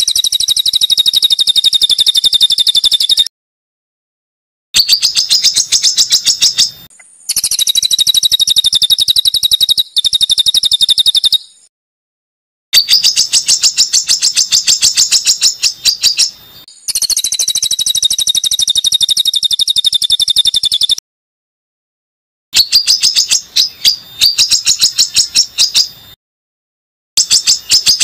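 Small songbird singing fast, high-pitched trills of rapidly repeated notes in phrases a few seconds long. The phrases are cut apart by abrupt gaps of total silence, as in an edited, looped song recording.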